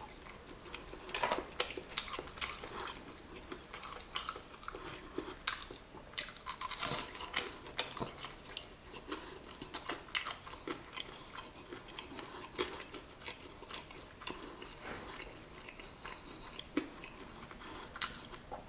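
A person biting into and chewing crispy fried chicken, with irregular crunches and crackles of the breading.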